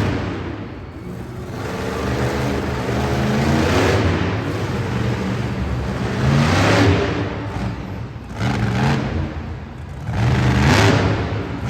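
Monster truck engine revving hard, surging up and easing off several times.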